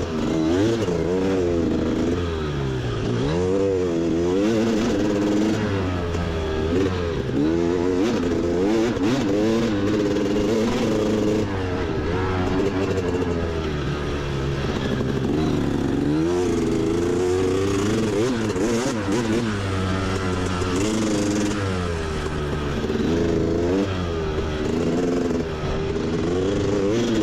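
Motorbike engine being ridden on a trail, its note rising and falling every second or two as the throttle opens and closes and the gears change.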